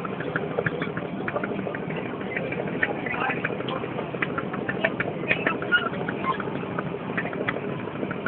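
A barge's engine running steadily, with many short clicks and knocks scattered over it.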